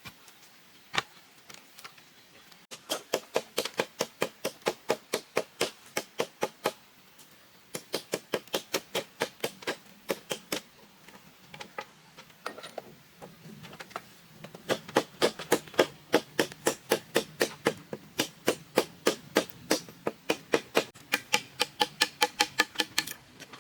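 Rapid, even tool strikes on wood or bamboo, about four a second, in runs of several seconds with short pauses between, like fast chopping or hammering.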